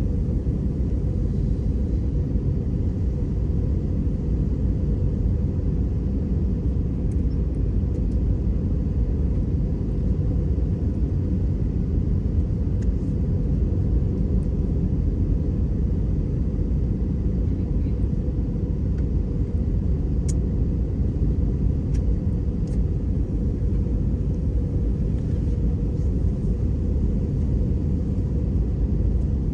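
Steady low rumble of an Airbus A320 heard from inside the passenger cabin: engine and airflow noise with no change in level. A few faint clicks sound about two-thirds of the way in.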